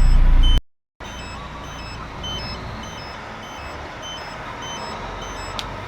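Truck engine running with a regular electronic beeping, about two to three beeps a second. About half a second in the sound cuts out briefly, then comes back quieter: the engine idles low and the beeping keeps going.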